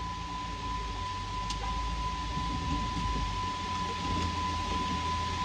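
Car cabin noise while driving: a steady low engine and road rumble with hiss, slowly growing a little louder, and a thin steady high-pitched tone throughout.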